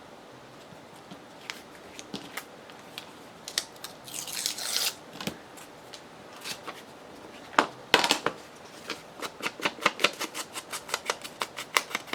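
Scissors cutting paper: scattered snips, a longer rasp of paper about four seconds in, and a quick run of crisp snips, about four or five a second, over the last few seconds.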